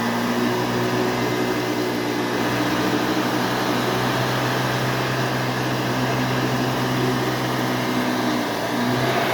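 Hoover Elite 350 direct-air upright vacuum cleaner running steadily, a motor hum with a steady fan whine over it, with a HEPA bag fitted.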